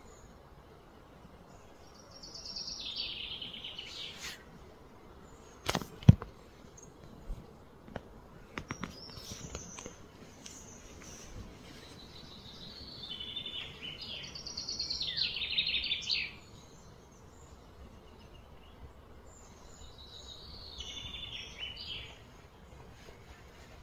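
Birds calling in three bouts of quick, falling trilled phrases over a low steady outdoor background. A single sharp knock comes about six seconds in, the loudest sound, followed by a few faint clicks.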